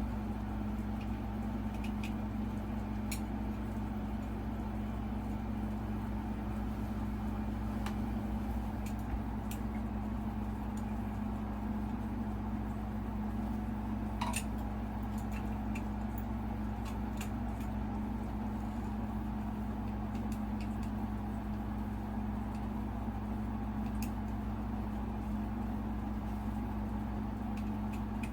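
A few light, scattered clicks and clinks of small parts being handled while a ceiling fan's light fitting is put together, over a steady low hum.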